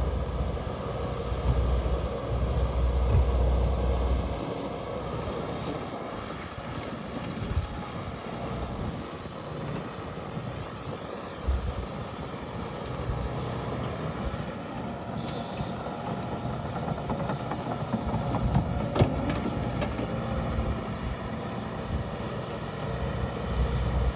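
Can-Am side-by-side utility vehicle running as it drives, a steady engine sound with a heavier low rumble in the first few seconds. There is a single sharp knock about three quarters of the way through.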